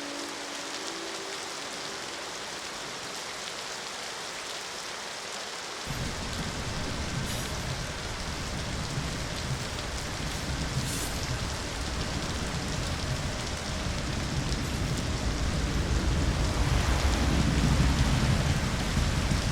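Steady rain falling. A faint low horn note dies away within the first second, and about six seconds in a deep rumble starts abruptly and builds, loudest near the end.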